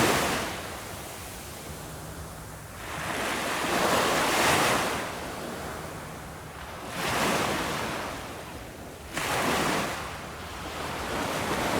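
Ocean waves breaking on a shore: repeated swells of rushing surf that build and fade every two to four seconds, with one sharper break near the end.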